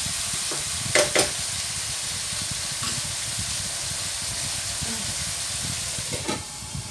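Chicken pieces sizzling as they fry in a nonstick wok, a steady hiss, with two sharp knocks about a second in. Near the end a glass lid goes onto the wok with a light clink and the sizzle becomes quieter.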